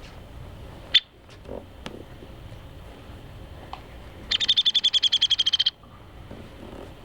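Downy woodpecker calling: a single sharp high note, then a few seconds later a rapid rattling series of high notes, about ten a second, lasting over a second.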